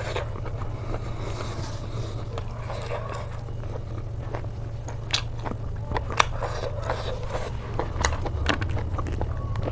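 A person chewing and biting food close to the microphone, mouth noises typical of a mukbang. Wet chewing at first, then sharper crunchy clicks and bites from about halfway through.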